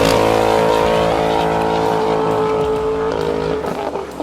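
Car engine and exhaust held at high revs, a steady note that drops about three seconds in and tails off near the end.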